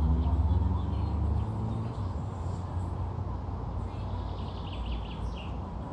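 Outdoor ambience: a steady low rumble, strongest in the first second and a half, with faint bird chirps about four seconds in.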